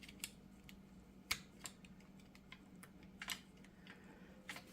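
A few faint, sharp metal clicks and taps spaced irregularly, from hand tools and a U-joint retaining clip being worked into place, over a faint steady low hum.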